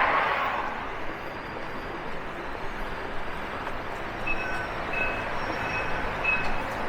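Street traffic noise, a vehicle passing at the start, then a short high beep repeated four times, about twice a second, in the second half.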